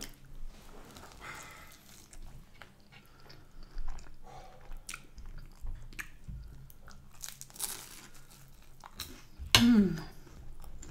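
Close-miked chewing of a mouthful of Yorkshire pudding, with scattered small crunches and wet mouth clicks. Near the end comes a brief voiced sound falling in pitch.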